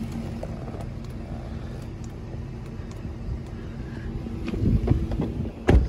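Mercedes S500's 5.0-litre V8 idling with a steady low hum. A few knocks come about five seconds in, with a sharp thump near the end.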